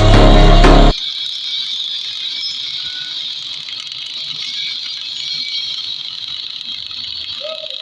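Welding arc crackling steadily, after loud music cuts off about a second in.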